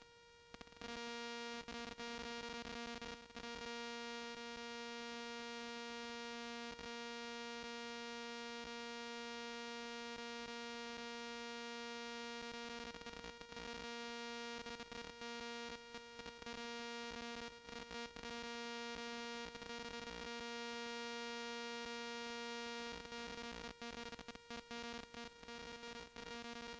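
A faint, steady electrical buzz: one low pitched hum with a long row of overtones, starting about a second in and dropping out briefly a few times toward the end.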